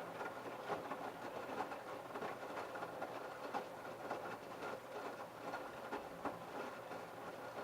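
LG F1222TD direct-drive washing machine turning its drum during the Baby Care prewash, the load tumbling. A steady low hum runs under irregular knocks and clatter as the wet laundry drops inside the drum.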